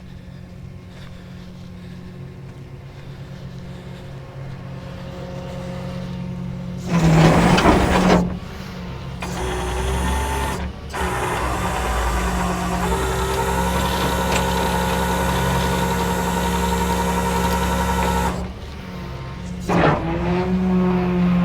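Rollback tow truck's engine running, steady and growing louder. A loud hiss comes about seven seconds in and a shorter one near the end.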